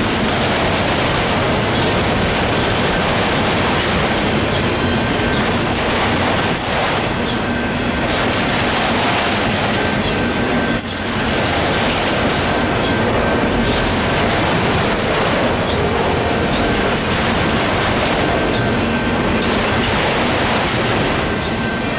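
Freight train cars rolling steadily past over a grade crossing: continuous wheel-on-rail rumble with a clickety-clack of wheels over the rails and some wheel squeal.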